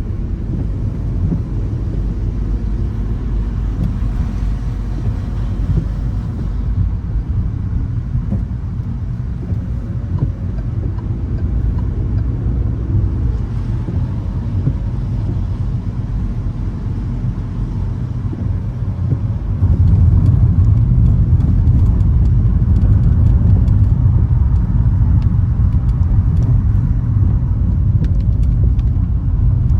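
A car driving on wet streets in the rain: a steady low rumble of engine and tyres on the road, which gets louder about twenty seconds in.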